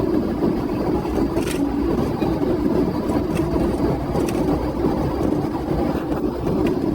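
Steady engine and road noise of a police car driving in pursuit.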